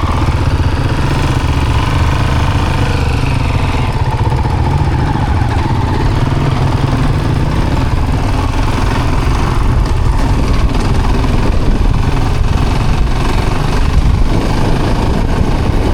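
Dual-sport motorcycle engine running steadily at trail speed, with a continuous low rumble.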